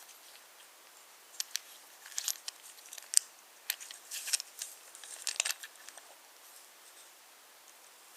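Wooden toy trains and wooden track giving off light, irregular clicks and clatters, bunched in the middle of the stretch over a faint hiss.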